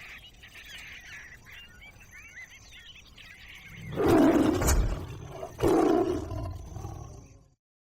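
Faint bird chirping, then two loud animal roars, each lasting a second or more; the sound stops dead just before the end.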